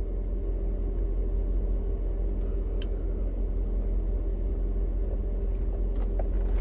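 Steady low hum of an idling vehicle heard from inside the cabin, with a few faint clicks.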